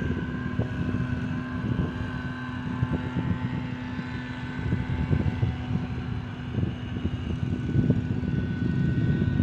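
Steady engine drone of grounds-maintenance machinery running, with a held whine over a low rumble.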